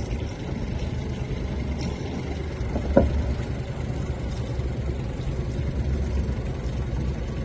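Small boat's outboard motor idling with a steady low rumble; a single sharp knock about three seconds in.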